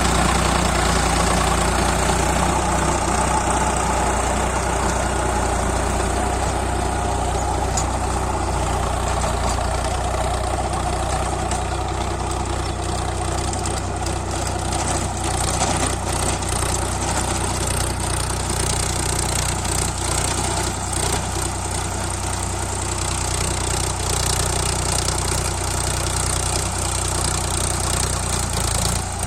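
Sonalika Sikander tractor's diesel engine running steadily at a constant speed, with a short break near the end.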